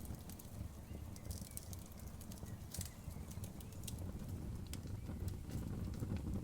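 Outdoor bonfire burning: a low, fluttering rumble of flames with scattered sharp crackles and pops of burning wood, a few of them close together about a second and a half in.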